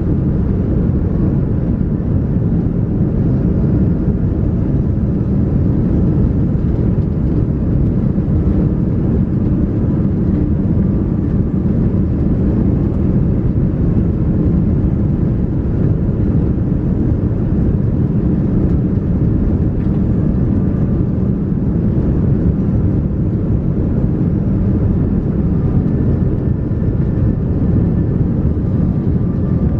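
Steady cabin noise of an Airbus A330-300 airliner in flight: an even, low roar of engines and rushing air.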